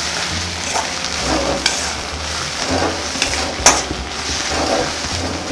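Sprouted moth beans and red masala sizzling as they fry in a kadhai, stirred and scraped around the pan with a perforated steel spatula, the masala being roasted into the sprouts. One sharp clink of metal on the pan comes about three and a half seconds in.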